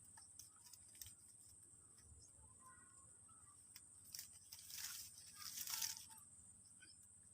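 Faint, quiet outdoor scene: a steady high-pitched insect buzz and a few faint bird chirps, with a short rustle of leaves or grass about five seconds in.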